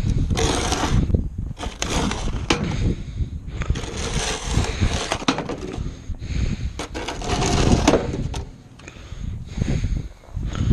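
Snow shovel scraping and pushing through snow in repeated irregular strokes of about a second each, with sharp knocks and clicks as the blade catches and snow is thrown.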